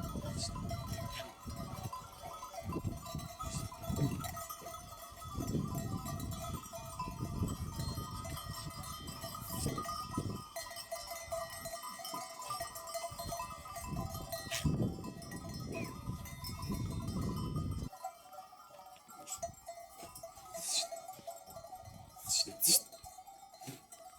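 A flock of sheep with bells: the bells ring on steadily as the animals move, with occasional bleats. The low shuffling sounds of the flock die down about two-thirds of the way through.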